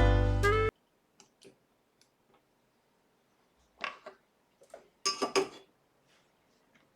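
Background music that cuts off suddenly, followed by a few short clicks and clinks of small hard objects, likely tools being handled on a workbench, with the loudest cluster about five seconds in.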